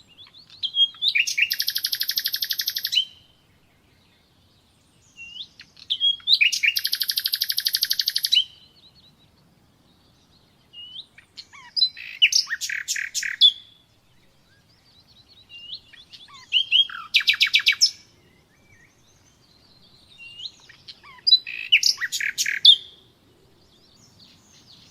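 Common nightingale singing: five song phrases a few seconds apart, each starting with a few thin whistled notes and running into a fast rattle of rapidly repeated notes.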